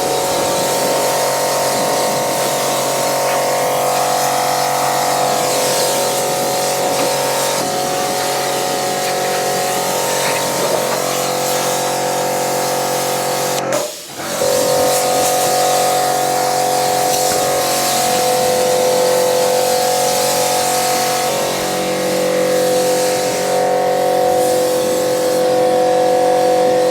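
Pressure washer running and spraying: a steady motor whine over a continuous hiss of water spray, with a brief break about halfway through.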